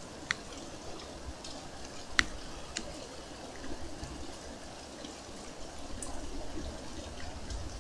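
Rain falling steadily, with a few sharp drops or drips striking close by.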